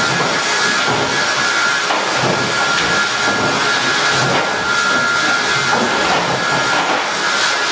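Sawmill machinery running: a steady, dense mechanical noise with a high whine held throughout.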